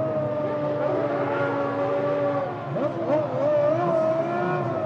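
Formula One cars' 3-litre V10 engines running at low, steady revs, several at once, with the pitch dipping and wavering about two and a half seconds in.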